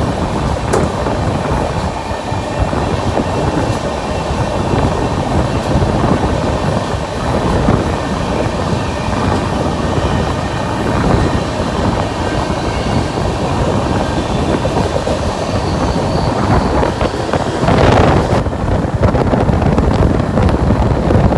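Garib Rath Express passenger coach running along the track, heard from on board: a steady loud rumble of wheels on rail with constant rattling clatter, swelling briefly to a louder rush near the end.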